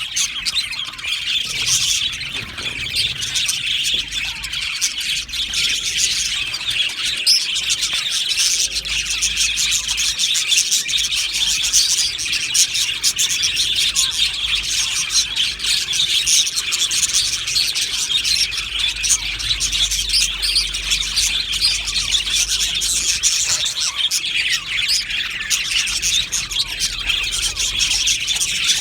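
A colony of budgerigars chirping and warbling together, a dense continuous chatter of many birds at once.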